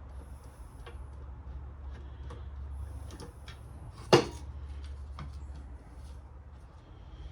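Light scattered clicks and taps of hand tools working on the saw's motor, with one sharp metal knock about four seconds in, over a steady low hum.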